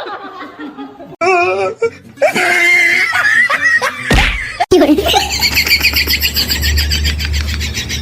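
Laughter, then a change near the middle to music with a fast, steady repeating pattern.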